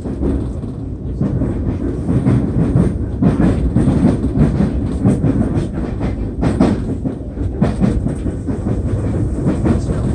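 Nankai Airport Line train running along the track, heard from inside the carriage: a steady wheel-on-rail rumble with short, irregular clicks and clatter from the wheels over the rails.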